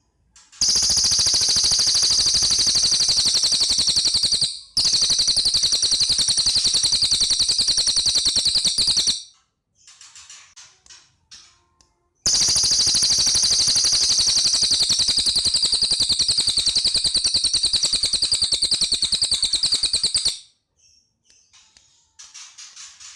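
Cililin songbird singing long, very rapid high-pitched rattling trills in three bouts, the last and longest running about eight seconds, with soft scattered chips in the pauses between.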